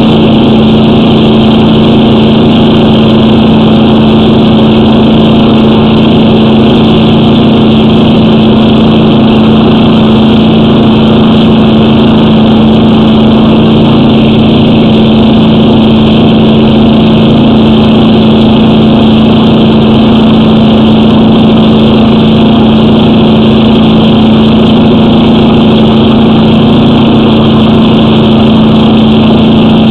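Engine running loud and steady at a constant speed.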